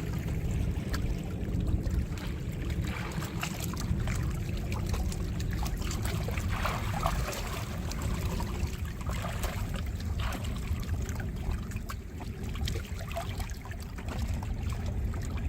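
Water lapping and trickling, with small scattered splashes over a steady low rumble.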